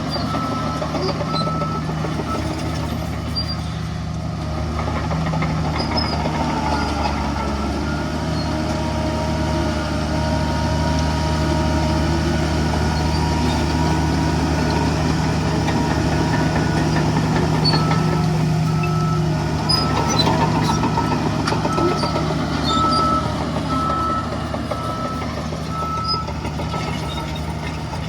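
Heavy diesel engine of earthmoving machinery running steadily, with a reversing alarm beeping about once a second briefly at the start and again through the second half.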